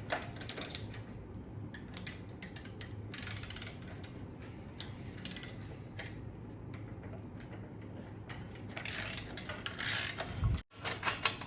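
Socket ratchet clicking in quick runs as a bolt is loosened with a 5/8 in (16 mm) socket.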